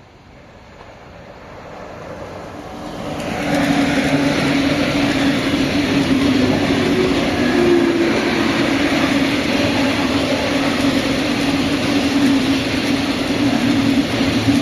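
A train approaching, growing louder over the first three and a half seconds, then passing close by with a steady loud rolling noise and a steady low hum.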